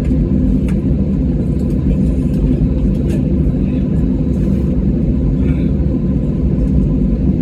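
Steady low rumble of an airliner cabin with the jet engines running during a long taxi and runway wait, with a few faint clicks.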